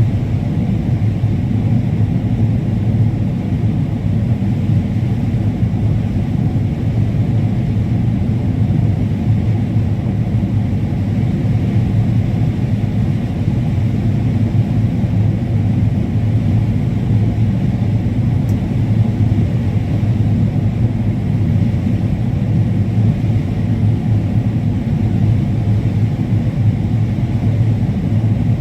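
Combine harvester running steadily while harvesting corn: a constant low drone with no changes.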